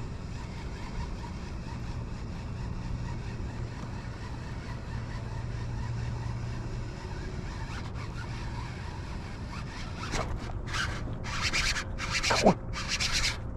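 Fishing reel buzzing in a series of short zipping bursts, starting about ten seconds in, with a low steady hum before them.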